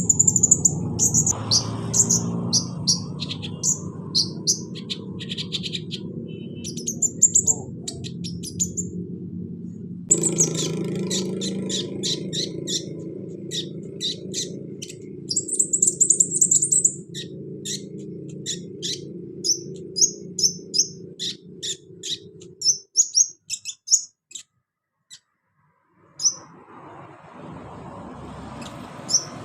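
Kolibri ninja sunbird singing: rapid, high, thin chirps and short trills, over a steady low background noise. The sound cuts out for a moment near the end and then starts again.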